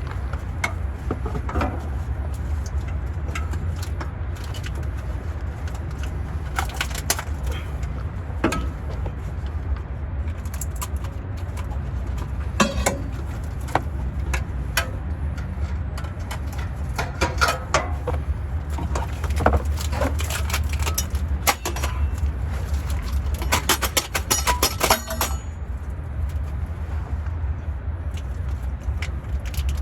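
Hand tools clicking and clinking against metal parts, with scattered single strokes and a rapid run of clicks late on, over a steady low rumble.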